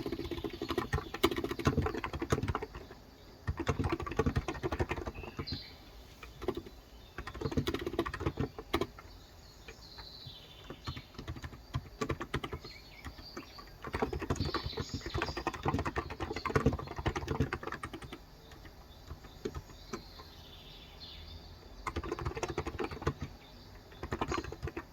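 Typing on a COX Endeavor electrostatic capacitive (contactless) tenkeyless keyboard with 35 g switches: runs of fast key strokes a few seconds long, broken by short pauses. Birds chirp faintly in the background several times.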